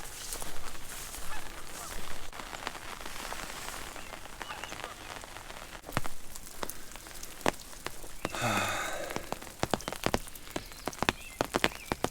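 Light rain with scattered drops tapping, the taps coming thicker near the end. About eight and a half seconds in, a short honking call sounds once.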